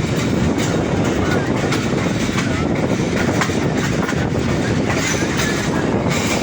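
Passenger train on the rails: a steady, loud rumble with wheel clatter.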